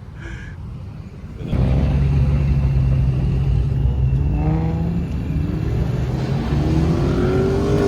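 Car engine at full throttle, coming in suddenly about a second and a half in and accelerating hard, its pitch climbing more than once as it pulls through the gears.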